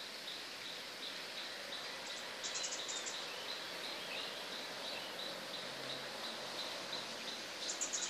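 Birds chirping outdoors: a high note repeated about three times a second throughout, with a short, fast, very high trill about two and a half seconds in and again near the end, over a steady hiss.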